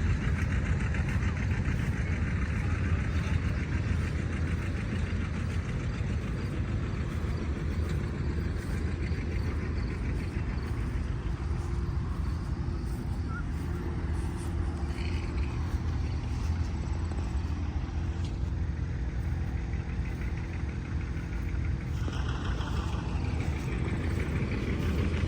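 An engine running steadily, a low, even rumble with a fast regular pulse.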